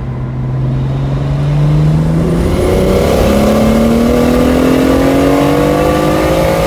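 BMW 135i's single-turbo N54 straight-six making a full-throttle third-gear pull at about 17 to 19 psi of boost, the revs climbing steadily.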